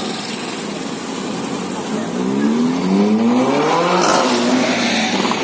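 A car's engine accelerating hard, its pitch climbing for about two seconds, then dropping as the car passes about four seconds in, over steady street traffic noise.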